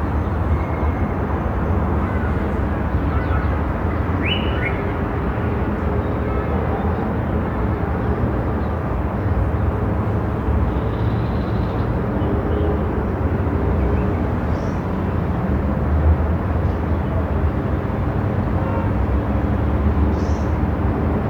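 Steady low rumble of a moving car: engine and road noise with a faint hum, used as sleep noise. A brief high chirp comes about four seconds in.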